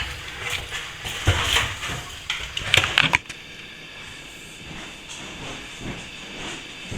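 Plastering hand tool scraping across a wall in a run of uneven strokes for about three seconds, then stopping abruptly, leaving a quieter steady hiss with a few faint strokes.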